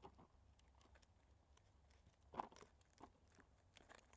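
Mostly quiet, with a few short crunches; the sharpest comes about two and a half seconds in, and smaller ones follow near the end.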